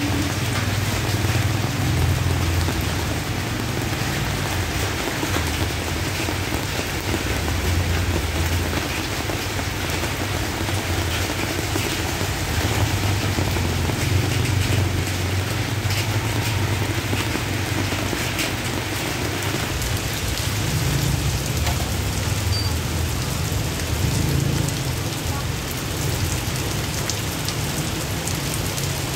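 Steady heavy rain falling on a wet street and pattering on the canvas awnings overhead, with a low rumble underneath that swells and fades several times.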